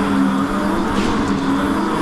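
Mini bike's motor running at a steady speed, with a steady humming tone.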